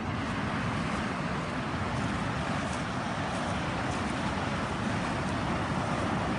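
Flowing water rushing steadily: a dense, even noise that does not change.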